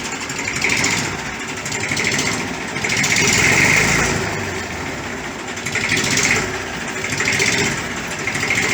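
1959 Fordson Dexta's three-cylinder diesel engine idling after an oil and filter change, with oil pressure up. The running noise swells and eases every second or so.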